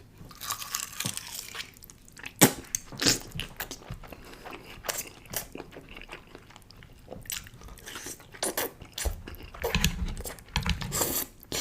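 Close-up mouth sounds of eating spicy cheesy noodles: irregular wet chewing smacks and clicks, the loudest about two and a half seconds in.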